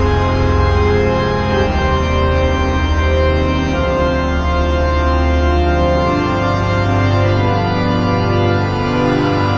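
Organ music with held chords over a steady bass line.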